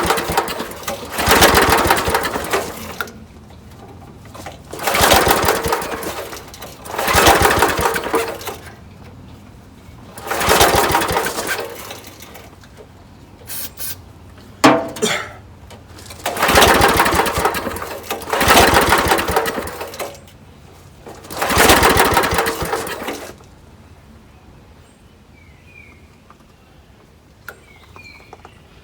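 Small gasoline engine on a portable air compressor being pull-started over and over: about eight pulls of a second or two each, the engine turning over in rapid chugs but not catching, with a sharp click midway. The repeated failure to start goes with a freshly readjusted main jet, and the owner suspects the engine may be flooded.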